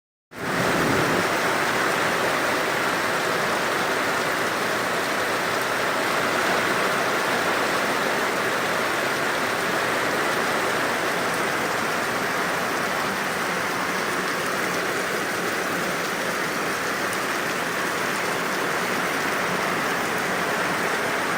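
Heavy rain pouring down, a steady, even hiss of a sudden downpour.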